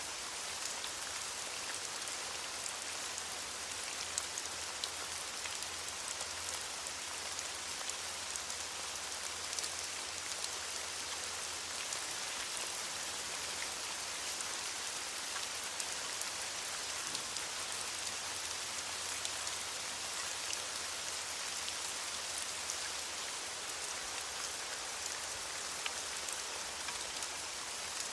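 Steady rain falling on leaves, an even hiss dotted with many small drop ticks.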